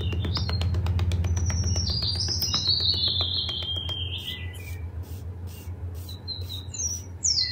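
Birds chirping and tweeting in short gliding calls, over a steady low hum and a run of faint ticks.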